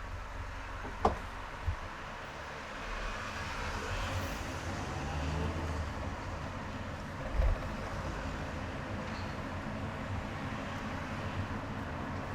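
Steady road and engine noise of a car driving in traffic, with a sharp click about a second in, a smaller one shortly after, and a short low thump about seven and a half seconds in.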